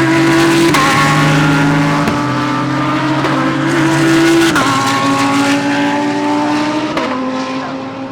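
GT3 race car engine accelerating hard through the gears. There are about four upshifts, each a sudden drop in pitch before the engine note climbs again.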